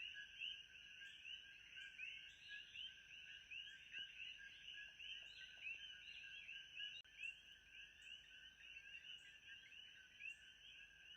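Faint, dense chorus of many small calling animals, short rising chirps overlapping without a break, over a steady high-pitched tone.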